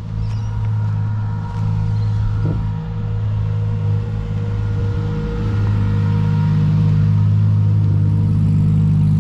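A car engine running steadily at an even speed, getting louder about five and a half seconds in.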